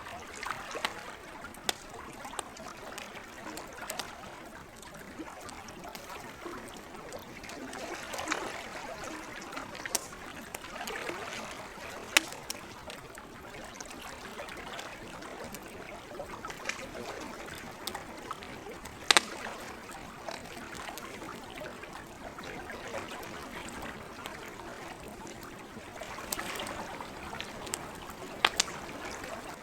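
Campfire crackling, with sharp, irregular pops of burning wood, the loudest about twelve and nineteen seconds in, over a steady wash of gentle lake water.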